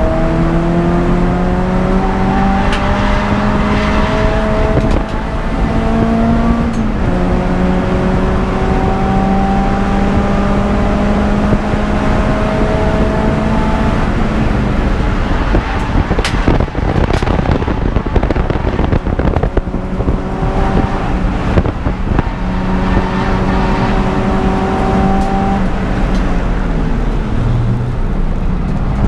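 Peugeot 206 GTI's four-cylinder engine pulling hard under race conditions. The pitch climbs through a gear, drops at a gear change about seven seconds in, and climbs again. A noisier stretch with a few sharp clicks comes midway, then it accelerates again and falls away near the end.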